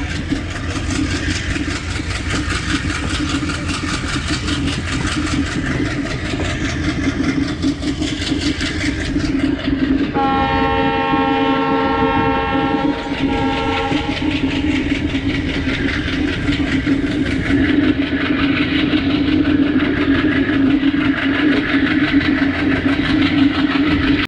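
Diesel-hauled passenger train running at speed, with steady wheel-on-rail noise and a constant low drone. About ten seconds in, the diesel locomotive's horn sounds one steady chord for about four seconds.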